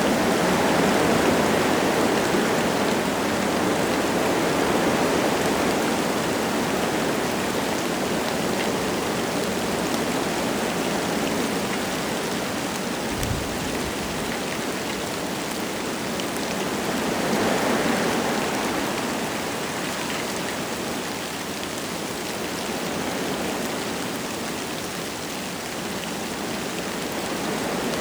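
Wind rushing through forest trees with light rain falling, a steady noise that swells with a gust about two-thirds of the way in. A single brief low thud comes about halfway through.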